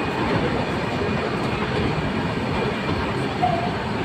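Nilgiri Mountain Railway metre-gauge train running, a steady running noise of the train on the rails.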